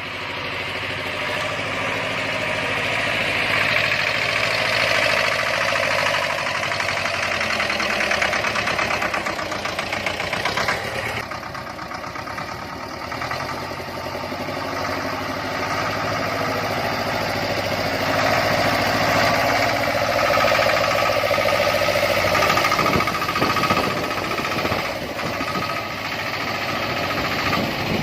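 T-25A tractor's two-cylinder air-cooled diesel engine running under load, its sound easing off for a few seconds about a third of the way through and then building again.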